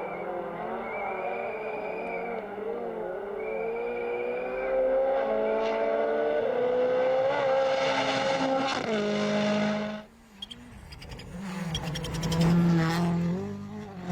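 Rally1 rally car's turbocharged four-cylinder engine revving hard and climbing in pitch through the gears. It cuts off abruptly about ten seconds in, and then another car is heard accelerating.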